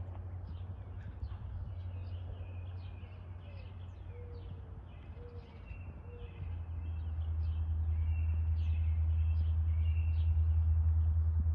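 Birds chirping rapidly and repeatedly over a steady low diesel rumble from the approaching Norfolk Southern locomotive, which grows clearly louder from about halfway through.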